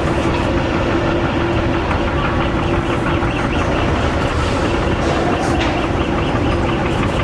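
Steady, loud vehicle engine noise with a constant low hum throughout.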